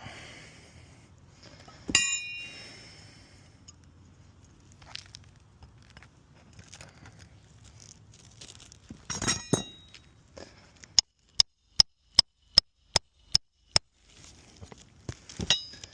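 Hammer driving a roofing nail into a shingle: a single ringing metal clink, a few knocks, then a quick run of about eight even taps, a little over two a second.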